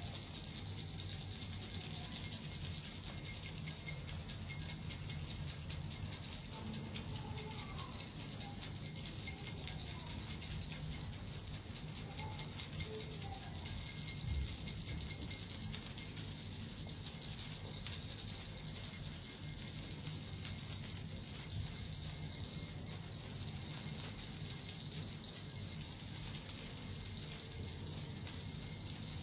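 Small jingle bells (suzu) shaken without a break, a steady dense jingling shimmer with ringing high tones.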